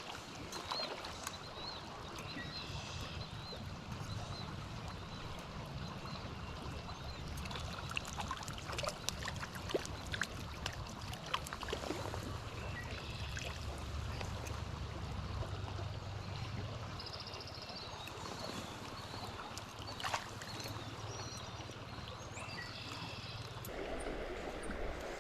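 Stream water running and trickling over a steady low rumble, with scattered small splashes. Short bird calls come in now and then.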